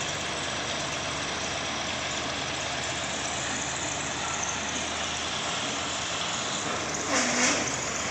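An engine running steadily at idle. About seven seconds in there is a brief, louder rushing noise over it.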